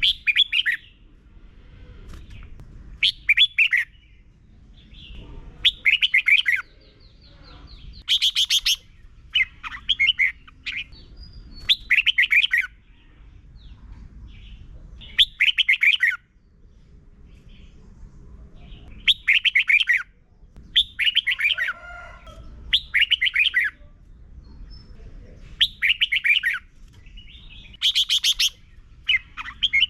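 Red-whiskered bulbul singing: short phrases of quick, warbling whistled notes, each about a second long, repeated every two to three seconds.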